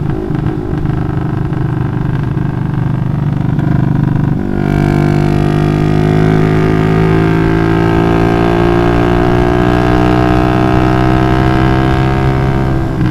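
Motorcycle with a Requsan aftermarket exhaust being ridden, its engine at moderate revs. About four seconds in the throttle opens and the exhaust note turns louder and higher, then holds steady and climbs slowly as the bike pulls.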